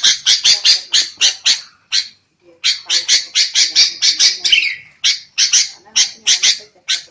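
Sooty-headed bulbuls giving rapid, harsh chattering calls, about five notes a second in runs with a short break about two seconds in: the agitated 'ribut' chatter used as a lure call.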